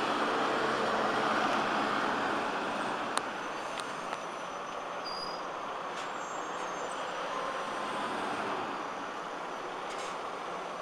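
Articulated city bus running: a steady rushing noise of engine and road, with a few sharp clicks about three, four and six seconds in.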